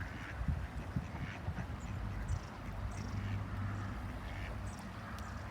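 Ducks quacking now and then, short scattered calls, over a low steady hum.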